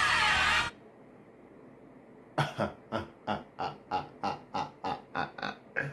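Music playback stops abruptly under a second in. After a short hush, a person makes a run of about a dozen short breathy vocal bursts, about three a second.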